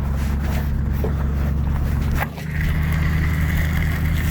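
Truck engine running steadily under a light towing load. About two seconds in there is a click and a brief drop, after which the engine note shifts and a steady whine comes in.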